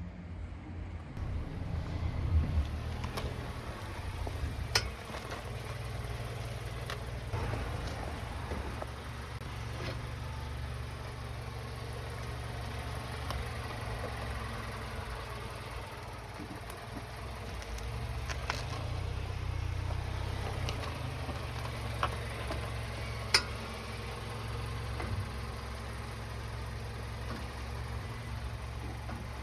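Mazda CX-8 running with a steady low rumble, broken by a few single sharp clicks.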